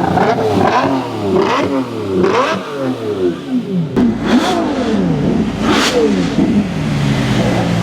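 Supercar engine revved hard several times in quick succession, its pitch climbing and dropping with each blip, then settling back to a steady idle near the end.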